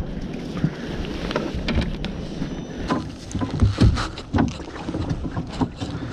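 Wind buffeting the microphone on a small boat, with many short, irregular clicks and knocks from handling on board.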